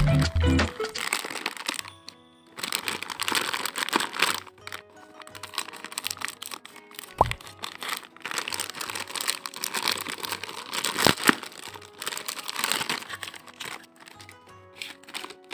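Packaging crinkling and rustling as it is handled and opened, with two sharp clicks, over quiet background music.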